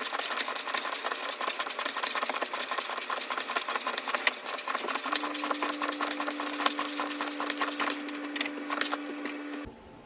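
Air pump running steadily with a fast, even pulsing, inflating an inflatable boat; a lower hum joins about halfway through, and it cuts off suddenly near the end.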